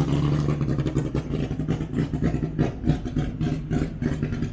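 A car engine idling steadily, its exhaust giving a quick, even pulsing over a low, steady note.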